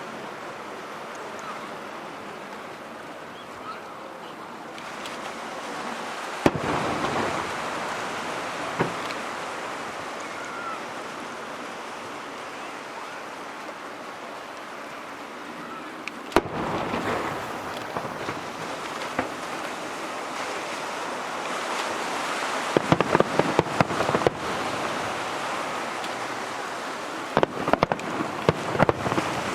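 Fireworks display: single heavy shell bursts about six and sixteen seconds in, then quick runs of sharp cracks around twenty-three seconds and again near the end, over a steady hiss.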